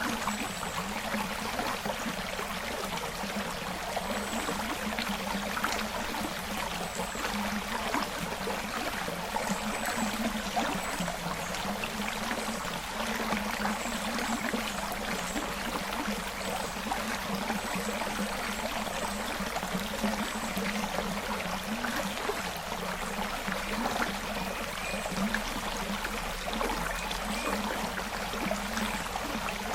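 Forest creek flowing, a steady rush of running water with trickling over it.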